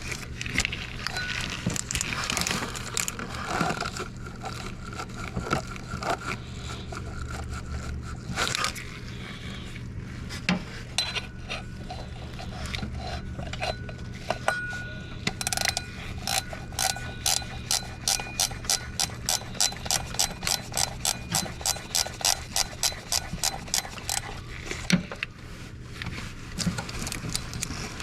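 Ratcheting wrench clicking as a water pump pulley bolt is turned out. The clicks come irregularly with some metal scraping at first, then settle past the middle into a steady run of about three to four clicks a second.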